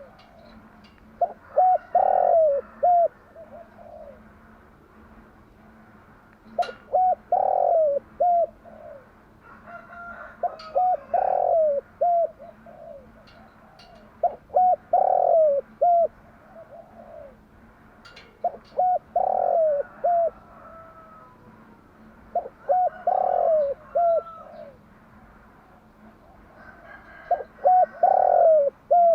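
Spotted dove cooing its song: seven phrases of a few short coos each, one roughly every four seconds, over a faint steady hum.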